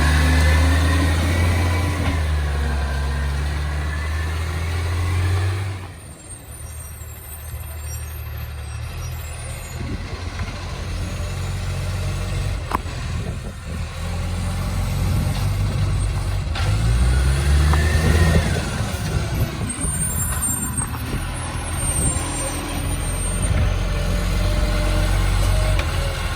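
Side-loader garbage truck's diesel engine roaring through a large exhaust leak, loud for the first few seconds, then dropping off suddenly, before revving up again in the second half with a brief hiss like an air brake.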